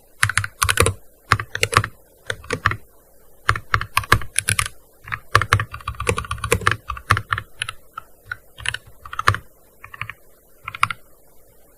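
Typing on a gaming keyboard: quick runs of keystrokes in bursts with short pauses between them, the keystrokes thinning out and stopping about a second before the end.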